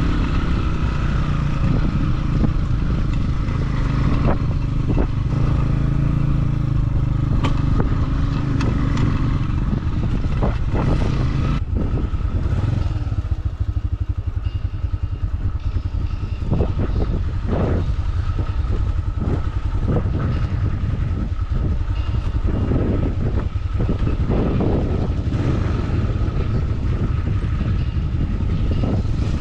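Motorcycle engine running steadily while riding, with scattered short knocks and rattles through the second half.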